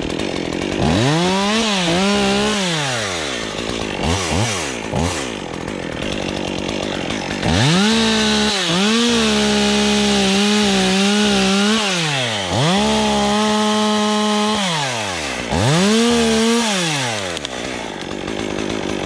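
Two-stroke chainsaw revved up to full throttle four times, each held for about two to four seconds and then let back down, with a couple of quick blips about four seconds in. The pitch wavers while held, as the saw cuts through wood.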